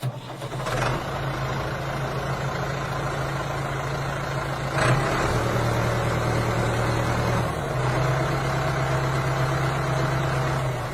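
A motor running steadily with a low hum; its pitch drops slightly about halfway through and shifts again near the end.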